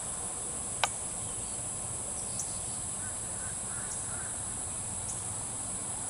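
A steady, high-pitched drone from an insect chorus in the trees, with faint bird chirps in the middle. There is a single sharp click about a second in and a few fainter clicks after it.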